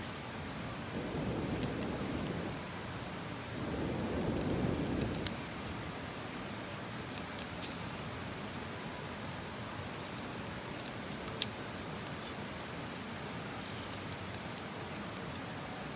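Campfire crackling: scattered sharp pops and ticks over a steady hiss, with two soft rushing swells in the first few seconds.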